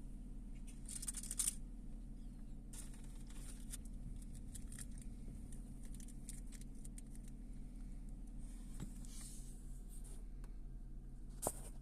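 Faint scattered rustles and ticks with one sharper click near the end, over a steady low hum.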